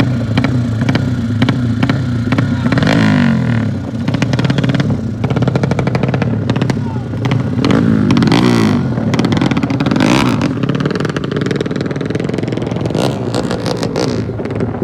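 200cc motocross dirt bike engines running hard, their pitch dropping sharply twice, with steady engine drone between.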